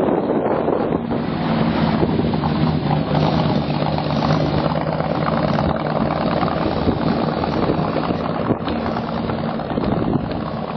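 Car engine running at a steady idle, a low even hum, with wind buffeting the microphone.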